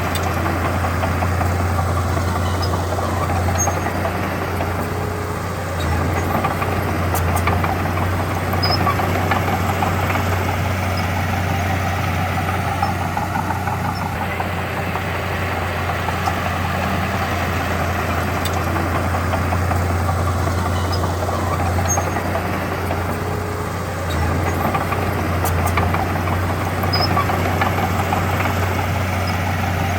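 Diesel engine of heavy earthmoving machinery running steadily with a strong low hum, its level easing off briefly twice and building back up.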